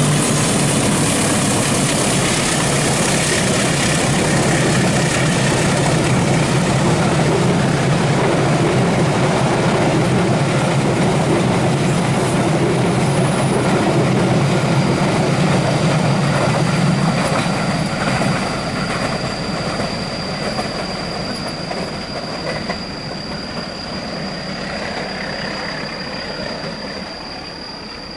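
Train passing close by, its wheels and cars rumbling and clattering over the rails. About two-thirds of the way through it begins to fade, leaving a thin, steady, high-pitched wheel whine.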